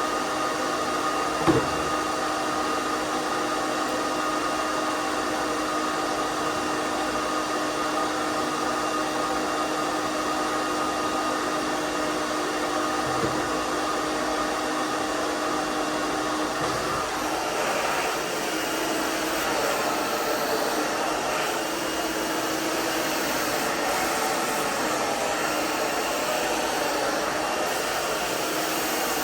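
Hairdryer running continuously, a steady rush of air with a steady hum over it, blowing on long hair. A brief sharp click about a second and a half in, and the hum's tone changes slightly a little past halfway.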